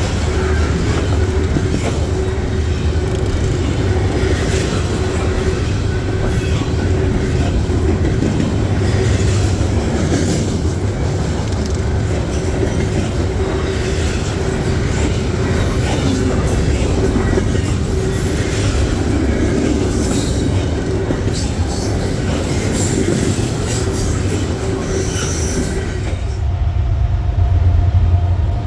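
Freight train rolling by: a steady rumble of wheels on rail with irregular clicks over the joints and intermittent high wheel squeal. Near the end the sound changes suddenly to a deeper, duller rumble.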